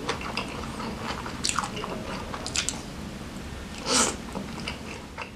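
Close-miked chewing of grilled chicken in spicy sambal: wet smacks and small clicks of teeth and lips, with a louder wet mouth sound about four seconds in.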